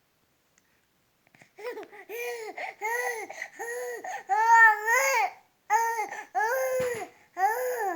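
Three-month-old baby vocalizing: a run of short, high-pitched rising-and-falling sounds, about two a second, starting after a second and a half of quiet.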